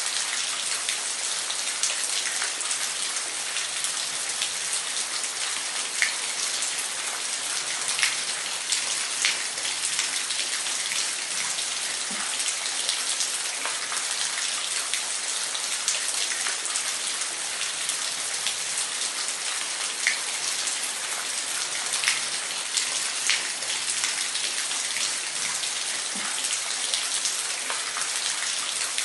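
Waterfall: a steady hiss of falling, splashing water with scattered sharper splashes standing out here and there.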